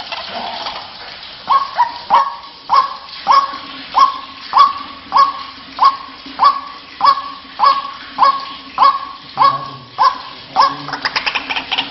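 White-breasted waterhen (ruak-ruak) calling: about sixteen croaking notes, one every 0.6 s or so, each sweeping down onto a steady pitch. Near the end the calls break into a faster, stuttering run. This is the call used to lure the bird.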